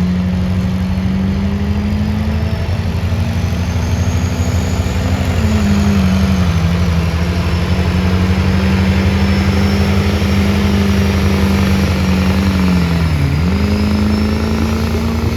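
Pulling tractor's engine running hard under full load as it drags the sled. Its steady note sags in pitch twice, briefly.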